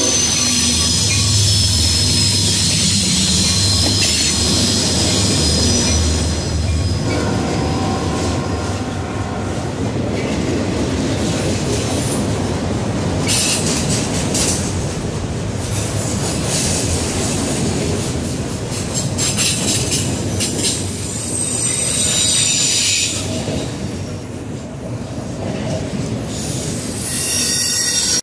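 Freight train passing close by on curved track: the diesel locomotives' engines run loudly for the first several seconds, then the autorack cars roll past with a steady rumble of wheels on rail. High-pitched wheel squeal from the curve comes at the start and again twice in the second half.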